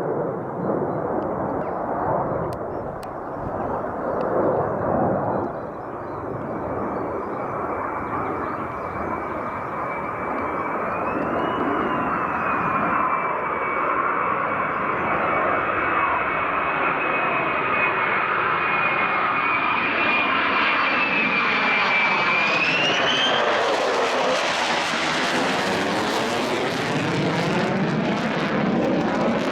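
Military fighter jet on approach with a steady high engine whine. Near the end the whine rises sharply and gives way to a loud broad rush of jet noise with a sweeping phasing sound as it passes close by.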